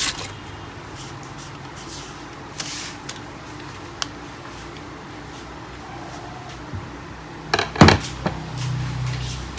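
Scattered clicks and knocks of plastic printer parts being handled and moved, the loudest cluster about eight seconds in, over a steady low hum.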